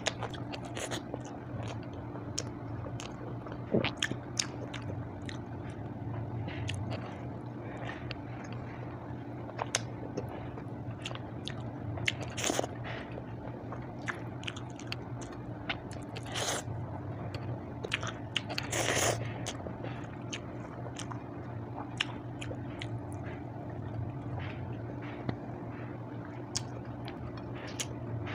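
Close-miked chewing and mouth sounds of a person eating rice and sautéed vegetables by hand: frequent small wet clicks with a few louder crunches, over a steady low hum.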